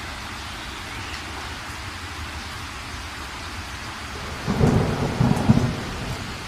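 Steady heavy rain, with a clap of thunder about two-thirds of the way in that cracks and rumbles in a few pulses for about a second and a half before fading back into the rain.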